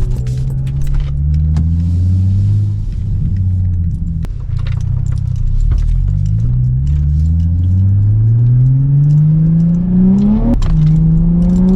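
Turbocharged Infiniti G35 sedan's VQ35 V6 accelerating hard in several pulls, its note climbing in pitch each time. Near the end there is a sharp crack and a drop in pitch at a gear change, and then the note climbs again.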